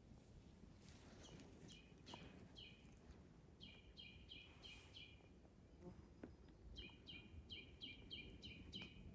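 A songbird calling faint runs of short, repeated, falling notes at about four notes a second, in three bursts, over a low rumble.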